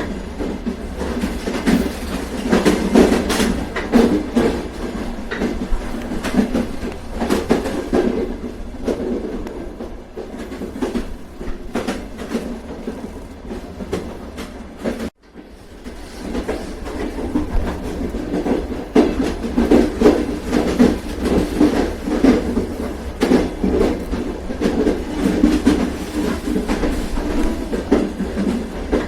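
Train running on rails: a steady low rumble with wheels clicking over the rail joints. The sound cuts out for an instant about halfway, then comes back up.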